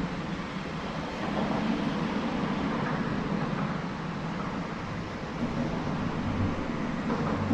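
Steady rushing noise of wind on the microphone, swelling and easing slightly, with low buffeting.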